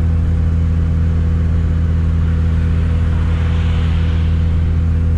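Turbocharged Chevrolet Chevette engine running at a steady cruise with a constant low drone. A hiss swells and fades from about three to four and a half seconds in.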